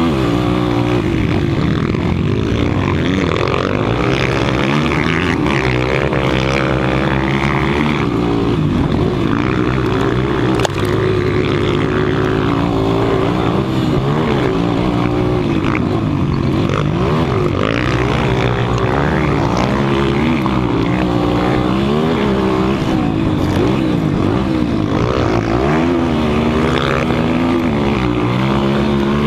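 200 cc motocross bike engines racing, revving up and down, the pitch rising and falling over and over with throttle and gear changes.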